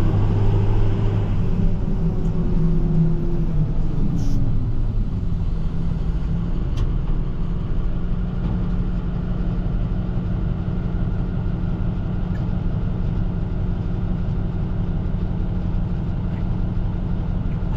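International TerraStar plow truck's diesel engine dropping in revs over the first few seconds as the truck slows to a stop, then idling steadily.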